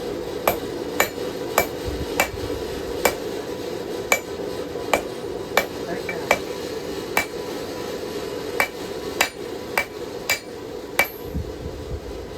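Hand hammer striking hot knife steel on an anvil, about two blows a second with a short ringing note on each and a brief pause partway through, as the blade blank is drawn down toward a point. A steady low noise runs underneath.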